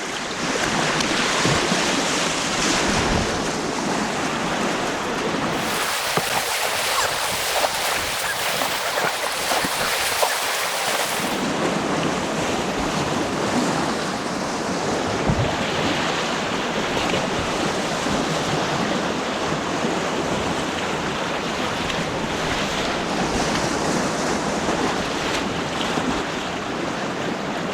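Rushing, churning white water of an artificial whitewater course around a kayak, a steady dense noise with wind buffeting the action camera's microphone. About six seconds in the hiss turns brighter for about five seconds, then settles back.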